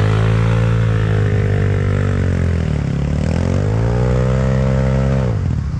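Off-road vehicle engine running under throttle. Its pitch dips about halfway through, rises again, then drops near the end as the throttle closes.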